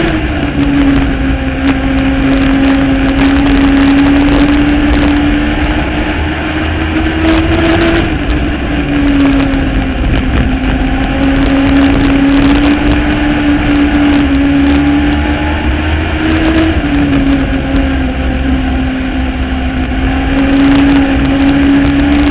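Legends race car's Yamaha motorcycle engine running hard at racing speed. Its pitch drops sharply about every eight seconds as the driver lifts for a turn, then climbs steadily back up along the straight.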